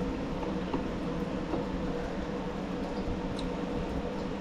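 A steady mechanical hum from a running machine, with a few faint light clicks of a screwdriver working on a small-engine carburetor.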